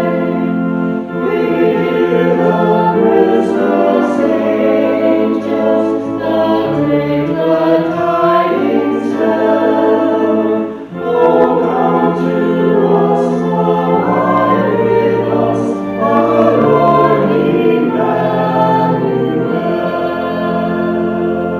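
A choir singing a hymn in parts, in continuous phrases with sustained low notes beneath the voices.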